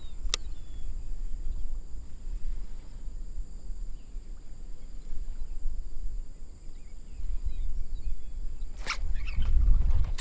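Wind buffeting the microphone in gusts, a heavy low rumble throughout, with two sharp clicks, one just after the start and one near the end.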